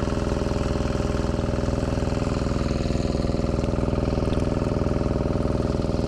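Small engine running steadily at a constant speed, with a fast, even pulse.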